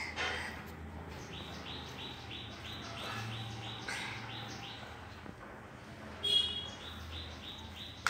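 Bird chirping in a quick, even series, about three chirps a second, with one short, louder call about six seconds in.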